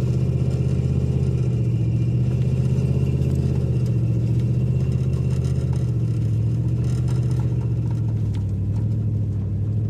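Car engine running steadily with a low drone as the car is driven slowly over snowy streets, heard from inside the cabin; the engine note eases slightly about eight seconds in.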